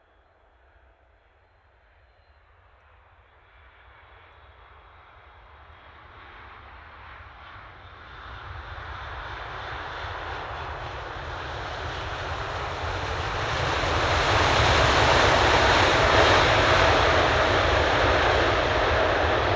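Boeing 747 jet engines growing steadily louder as the four-engine jumbo jet approaches from the distance, loudest and holding strong in the last few seconds, with a steady whine riding on the noise.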